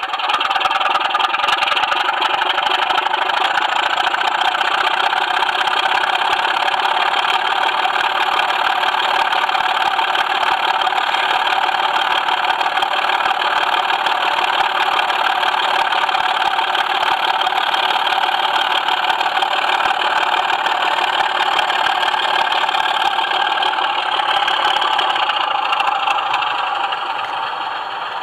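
Steady running noise of a model train: a Class 24 locomotive pulling a cam truck, heard through the Mobius camera riding on the truck, with a constant loud rumble and hiss of wheels and mechanism on the track. It eases slightly near the end.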